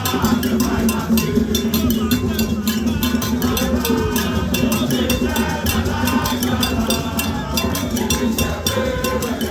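Demonstrators' crowd singing and chanting over a fast, steady percussion beat.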